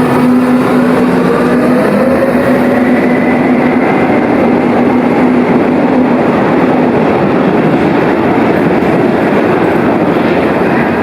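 Berlin U-Bahn train running on the track. An electric traction whine rises in pitch over the first few seconds, as when the train picks up speed, over a steady rolling rumble of wheels on rail.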